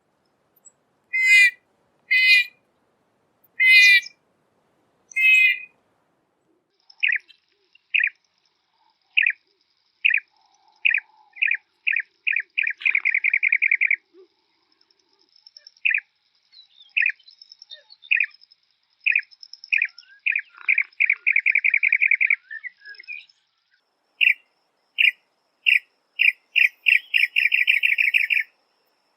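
Songbirds singing. There are four short wavering calls, then a song of separate notes that speed up into a rapid trill, heard three times.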